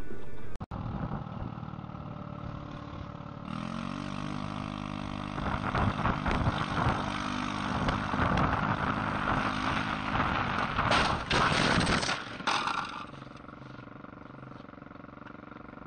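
Vehicle engine and road noise, growing louder in the middle and then dropping to a quieter steady hum near the end.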